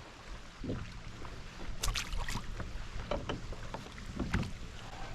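A few scattered light knocks and clicks from gear being handled and moved about in a fishing kayak, over a low steady background.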